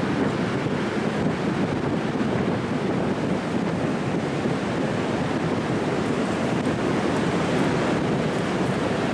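Strong wind buffeting the microphone over the steady rush of ocean surf breaking on the beach.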